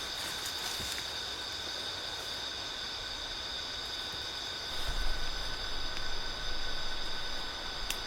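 Steady outdoor ambience: a high, even drone of several held tones over a soft hiss, with a low rumble coming in about five seconds in.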